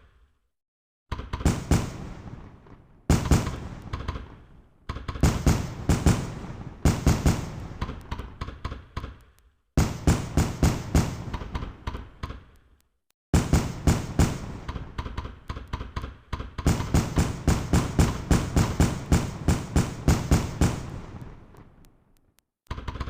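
Fireworks going off in several volleys of rapid, sharp bangs and crackles, each volley fading out before a short dead-silent gap.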